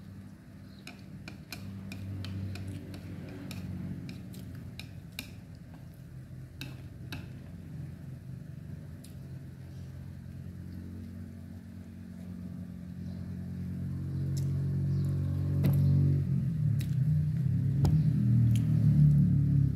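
Close-up eating sounds: wet mouth clicks and chewing as rice noodles and fried spring roll are eaten, with chopstick clicks. Under them a low rumble grows louder over the last few seconds.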